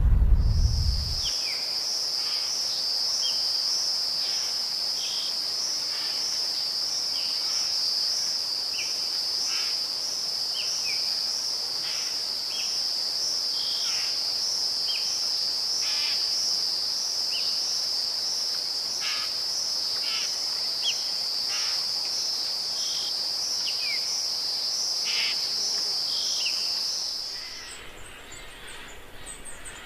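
A steady high-pitched insect trill, with short chirps scattered over it. A low rumble dies away in the first second, and the trill cuts off about 27 seconds in, leaving quieter ambience with high chirps.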